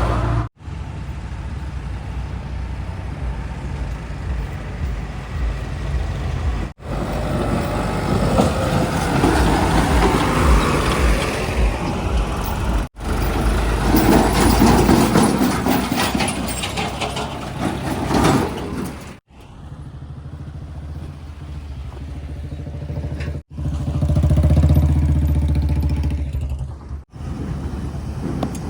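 Heavy diesel engines of earth-moving machinery and trucks running under load, swelling louder now and then, in a string of short clips joined by abrupt cuts.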